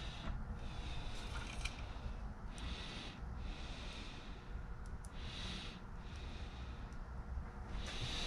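A man's breathing close to the microphone: soft, hissy breaths about every second and a half.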